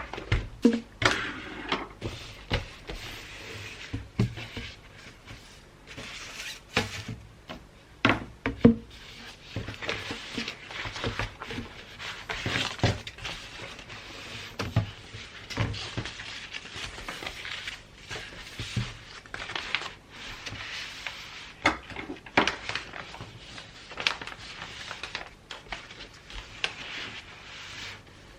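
Gift wrapping by hand: wrapping paper rustling and crinkling, with irregular taps and knocks as the paper and box are handled.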